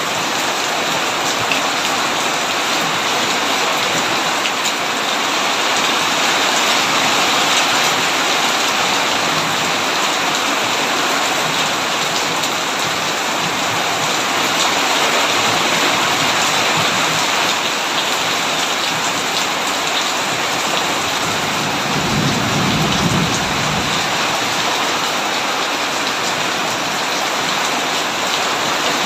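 Heavy rain pouring steadily on a tin roof, a dense even hiss. About three quarters of the way through, a short low rumble of distant thunder rises under it and fades.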